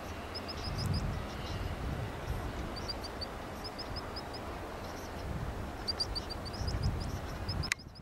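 Outdoor ambience with a small bird calling in short runs of three to five quick, high chirps, repeated every second or so over an uneven low rumbling background. Near the end the sound cuts off with a click.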